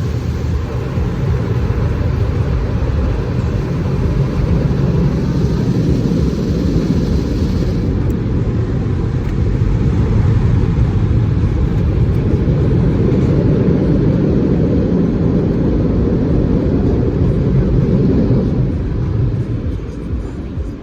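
Car wash machinery running with a loud, steady low rumble that builds over the first few seconds, holds, then eases off near the end.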